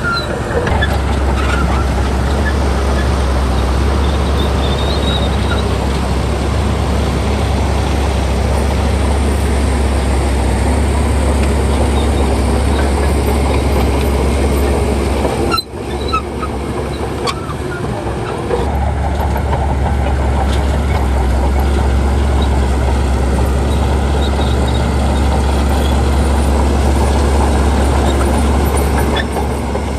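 Heavy diesel earthmoving machinery running under load, with a steady deep rumble. The sound breaks off briefly about halfway through, and the deep rumble comes back a few seconds later.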